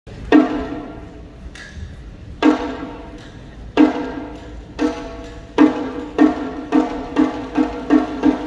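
Sumo taiko drum beaten with thin sticks. Sharp, ringing strikes come singly at first with soft taps between, then settle into a quicker even beat of about two strikes a second.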